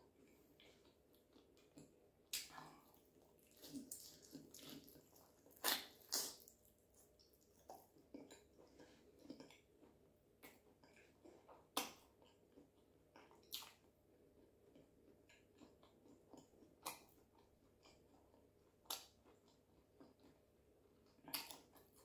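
Close-up eating sounds from a person eating chicken in sauce with her fingers: soft chewing broken by scattered short, sharp wet smacks and clicks at irregular intervals.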